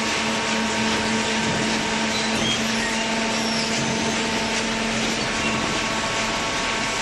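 Hydraulic cardboard baler's motor and pump running, a steady mechanical hum with a faint whine over a constant rush of noise.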